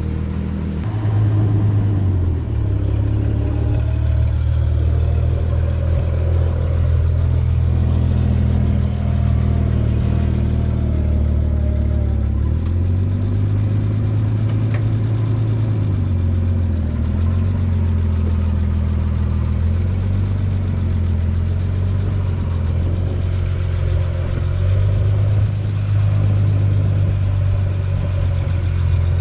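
A vehicle engine running at low speed, with its pitch stepping up and down a few times as it is throttled.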